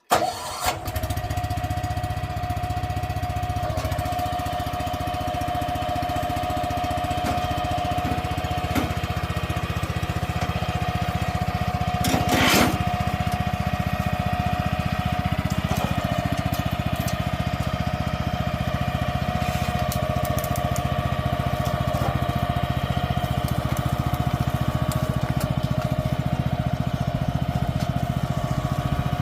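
Small engine of an agricultural power carrier running steadily, with a constant whine over a low rumble. There is one brief knock about halfway through.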